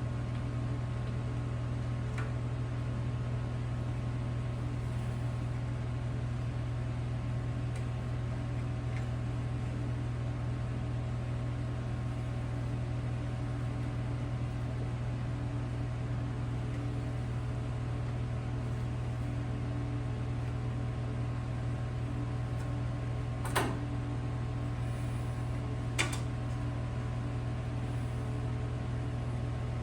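Steady machine hum with two sharp clicks about two and a half seconds apart near the end.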